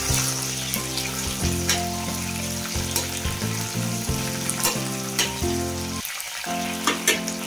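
Green chillies, dried red chillies and curry leaves sizzling in hot oil in a stainless steel kadai, with a steady hiss. A steel spoon stirs them, clicking against the pan now and then, most sharply about seven seconds in.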